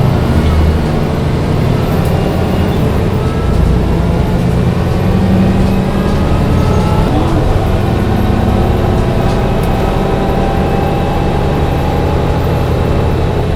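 Mercedes-Benz O405 N1 low-floor city bus under way, its engine running steadily.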